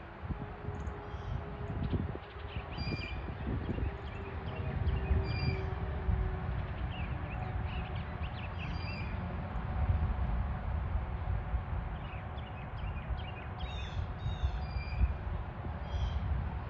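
Outdoor birdsong: short, soft warbling and chirping notes, typical of Eastern bluebirds singing softly, with a brief call that repeats every few seconds. A steady low rumble runs underneath.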